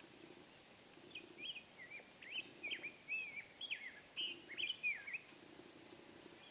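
A songbird singing a quick run of varied whistled notes that sweep up and down. It starts about a second in and lasts about four seconds.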